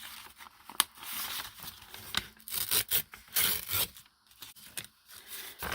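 Paper being torn and handled: a series of short, irregular rustling and ripping strokes as excess paper is removed.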